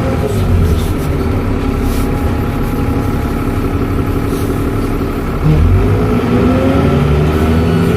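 Dennis Trident double-decker bus's diesel engine running, getting louder about five and a half seconds in as it pulls harder.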